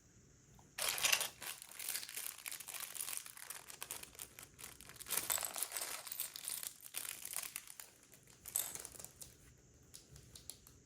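Thin plastic Lego parts bag crinkling as it is handled, in crackly surges that start about a second in, swell again in the middle and near the end, then stop.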